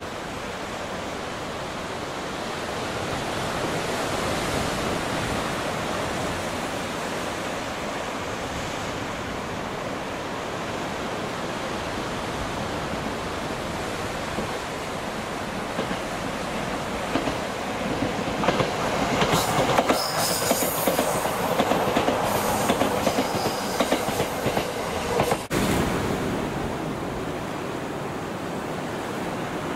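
Izu Kyuko 3000 series electric train, a former JR 209 series, running along a seaside line over a steady wash of surf. Rail noise grows as it nears, and a rapid clatter of wheels over rail joints is loudest from about two-thirds of the way in. An abrupt cut near the end leaves mostly surf.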